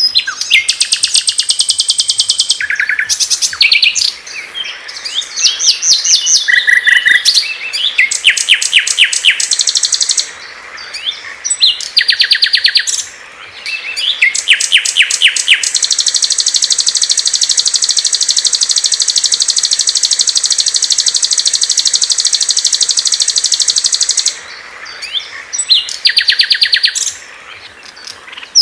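Small songbirds singing in bursts of rapid, high-pitched trills, with one long, steady trill of about eight seconds in the middle.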